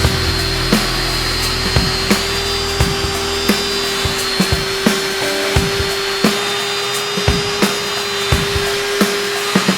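Electric drill motor running steadily at constant speed, over background music with a regular beat.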